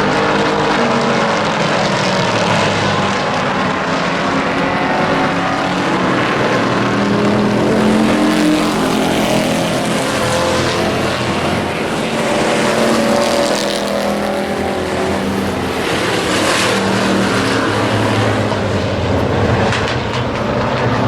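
Several race truck engines running together on an oval track, their pitch rising and falling as they circulate.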